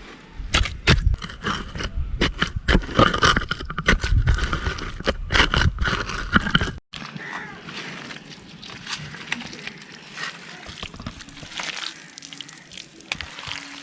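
Wet clay mud worked by hand: squelching and smacking as it is mixed with water, dense and sharp in the first half, then softer squishing after a brief cut about halfway.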